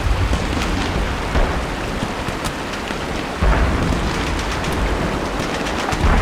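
Steady heavy rain hissing, with a deep low rumble that starts suddenly about halfway through and dies away over the next couple of seconds, like a thunder roll or a distant artillery boom.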